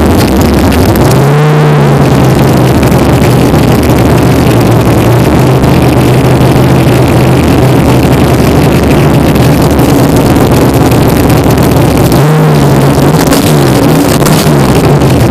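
Car engine running loudly through a newly fitted 3-inch exhaust. It is blipped briefly about a second in and again near the end, settling back to a steady idle between.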